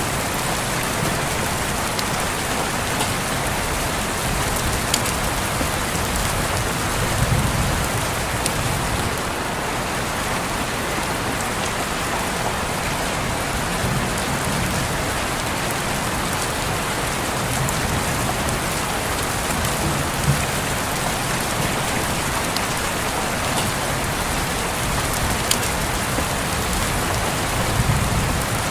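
Steady heavy rain hitting a window pane, with a few sharper drop ticks. A low rumble swells and fades every several seconds.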